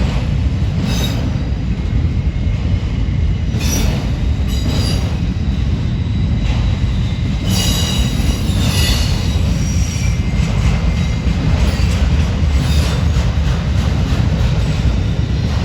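Freight cars of a manifest train rolling past with a steady, heavy low rumble. Wheel flanges squeal in short, high-pitched bursts several times, longest about eight seconds in.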